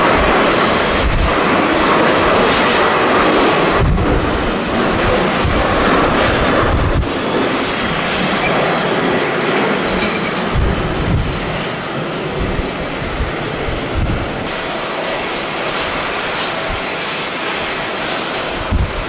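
Jet airliner engines running, loudest for the first seven seconds or so, then fading. Irregular low gusts of wind buffet the microphone throughout.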